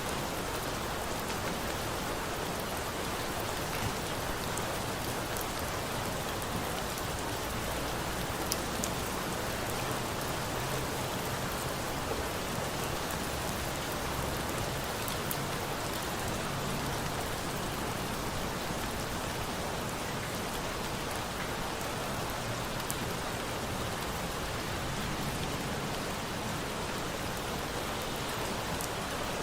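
Steady rain falling, an even hiss with a few faint sharp clicks now and then.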